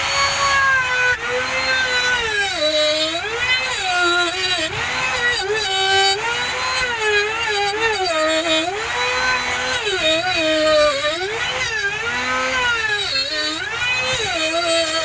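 Bosch GMR 1 palm trim router switched on and cutting. Its high motor whine sags in pitch again and again as the bit bites into the workpiece and recovers between bites.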